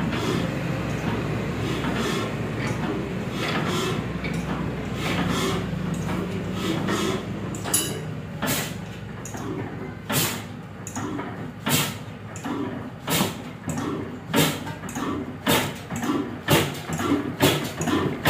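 Vintage Ruston Hornsby stationary diesel engine. A steady low running sound, then from about eight seconds in sharp exhaust beats come more and more often and grow louder as the engine fires and picks up speed.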